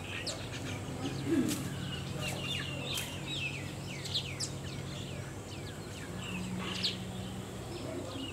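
Small birds chirping in quick, high, overlapping notes, many of them short falling calls, over a steady low hum.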